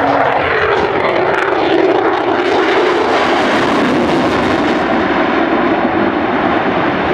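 F-22 Raptor's twin Pratt & Whitney F119 turbofans, loud on a fly-by pass. A rushing jet noise carries a tone that falls in pitch over the first second or two, then holds steady.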